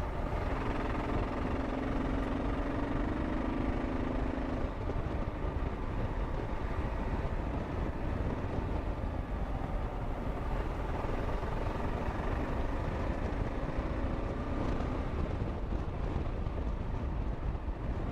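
Kawasaki KLR 650 single-cylinder engine running steadily under way, mixed with wind rushing over a helmet-mounted microphone. A low engine hum stands out for a few seconds near the start and again briefly about fifteen seconds in.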